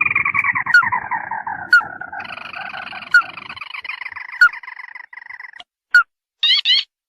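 Recorded calls of a ruddy-breasted crake used as a hunting lure: a long descending trill, then a steady rattling trill, with short sharp notes about every second and a quarter. There is a quick burst of rising notes near the end, and a low rumble under the first half.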